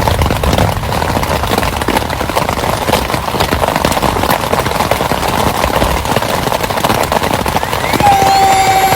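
Heavy rain falling, a dense patter of many sharp drop impacts. About 8 s in, a steady high whistling tone begins.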